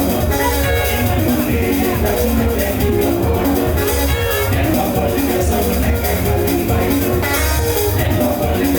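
Live band music with a heavy, steady bass and a regular beat under picked melody notes.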